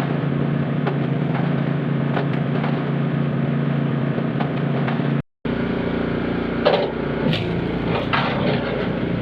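Small gasoline engine running steadily, with faint knocks. It cuts off abruptly about five seconds in, and an engine continues afterwards with sharper knocks and clatter.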